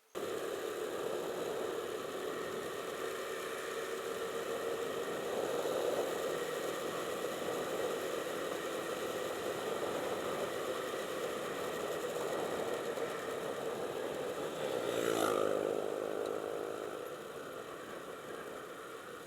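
Motorcycle engine running while riding, over a steady rush of wind and road noise. About fifteen seconds in, it briefly swells louder with a shifting pitch.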